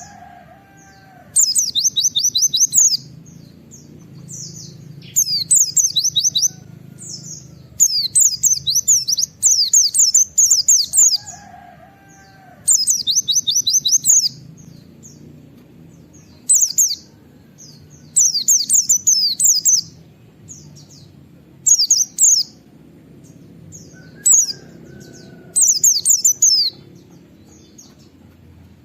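White-eye (pleci) singing in loud bursts of rapid, high 'wit-wit' notes, each burst a second or two long, repeated about a dozen times with short pauses between.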